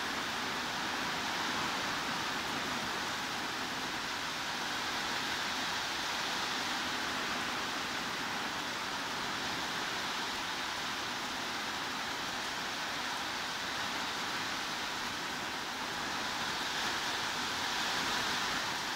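Heavy rain falling steadily as an even, unbroken hiss, with no separate drops or thunder standing out.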